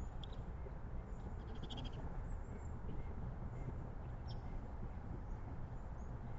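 Small songbirds giving a few faint, short chirps and one quick trill over a steady low background noise.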